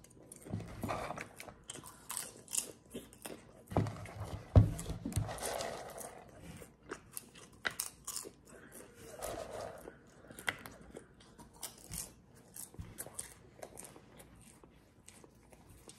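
A person chewing mouthfuls of popped butter-flavoured popcorn: irregular crisp crunches, louder in the first half and thinning out toward the end.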